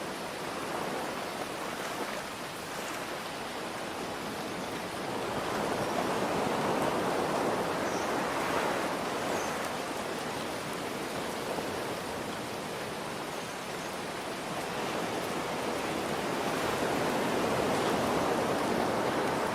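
Rain falling steadily over ocean surf, the waves swelling and easing off twice, about ten seconds apart.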